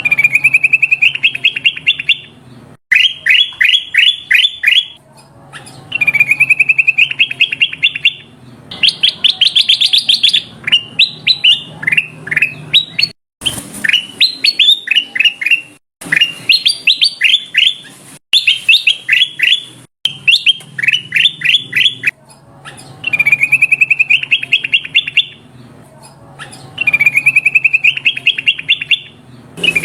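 Kutilang emas, a bulbul, calling in loud phrases of rapid repeated notes. Each phrase lasts about two seconds and rises slightly in pitch, and they follow one another with short pauses, with a few abrupt breaks where the recording is cut.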